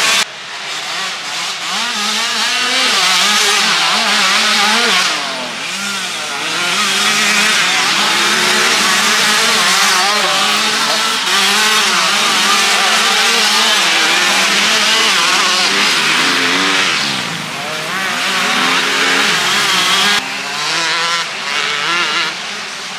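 Motocross bike engines revving up and down as the riders work the throttle, several bikes at once, with the sound changing abruptly a few times.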